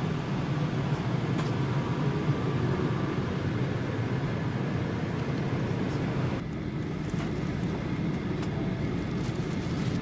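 Steady jet airliner cabin noise from a Boeing 737-900ER: engine and airframe rumble as heard from inside the cabin. About six and a half seconds in the sound changes suddenly, with the upper hiss dropping away, and a few faint clicks follow.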